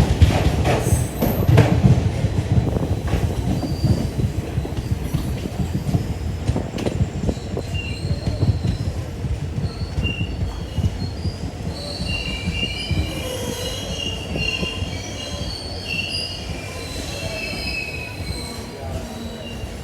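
A train moving slowly through a station: the low rumble of coaches on the rails slowly fades, and in the second half the steel wheels squeal in many short, high tones.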